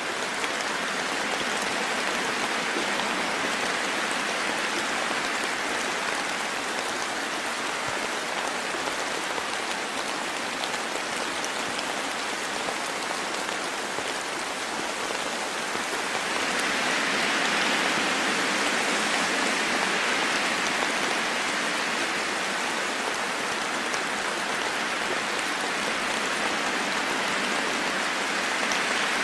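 Steady rain falling in a forest, a dense even hiss of drops on leaves and the ground, swelling slightly for a few seconds past the middle.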